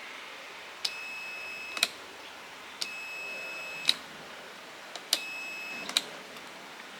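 An electronic beep, a steady high tone about a second long, sounding three times about two seconds apart. Each beep starts and ends with a sharp click.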